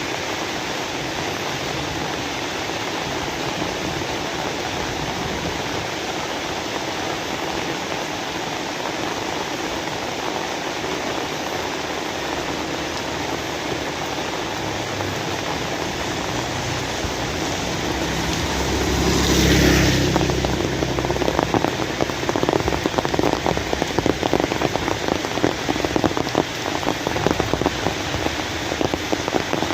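Steady rain falling. About two-thirds of the way through, a swelling whoosh with a deep rumble rises and fades over a few seconds. After it, heavier drops patter on a hard surface with many sharp ticks.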